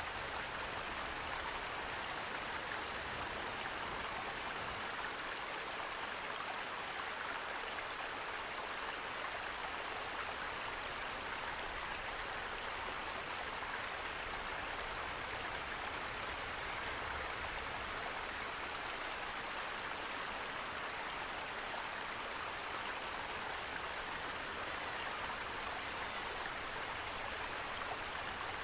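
Running water, a steady, even rush that does not change.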